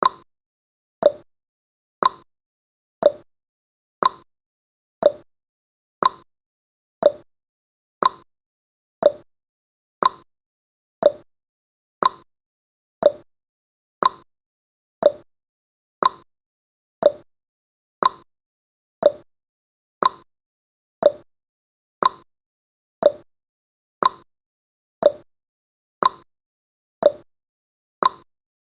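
Countdown timer's clock-tick sound effect: one short, sharp tick every second, steady and even.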